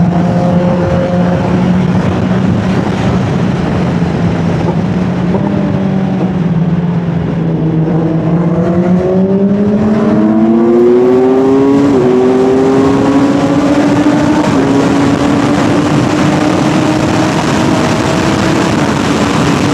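Sport motorcycle engine under way, heard from the bike, over a steady rushing noise. The engine note holds steady, then climbs as the bike accelerates from about eight seconds in, breaks briefly about twelve seconds in, and keeps rising slowly after.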